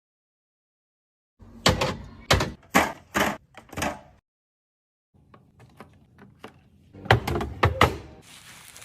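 Hard clacks and knocks of containers and items being set down and handled while restocking. About five sharp strikes come in quick succession, then a pause with a few faint ticks, then another cluster of clacks near the end.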